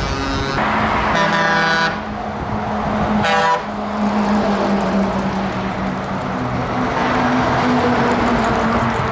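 Truck air horns sounding: a long blast in the first two seconds and a short blast about three and a half seconds in, over the steady running of truck engines.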